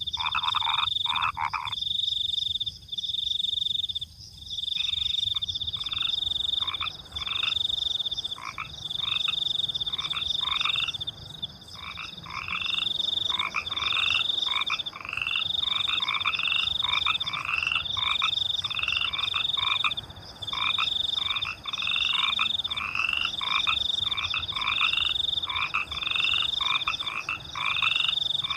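Frogs calling in fast, repeated croaks over crickets trilling in high pulsing bursts. The frogs stop for a few seconds near the start, then resume densely.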